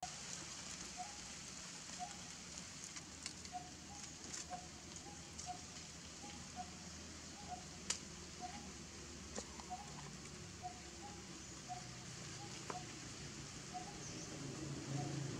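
A bird repeating a short, low note about twice a second, over a steady high hiss, with a few sharp clicks, the loudest about eight seconds in.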